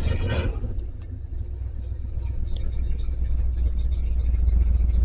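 Ford 390 cubic-inch FE V8 of a 1974 F-350 running steadily while still warming up after a cold start: a low, steady rumble that grows louder from about a second in, with a brief sharper sound at the very start.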